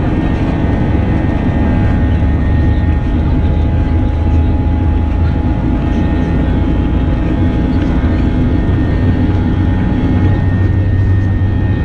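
Steady low drone of an Airbus A321 heard from inside the passenger cabin, engine and airflow noise, with a faint steady high whine running through it.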